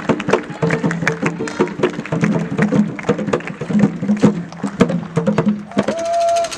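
Drum and percussion music with many fast strikes over steady held notes. Near the end the drumming breaks off and a single steady tone sounds.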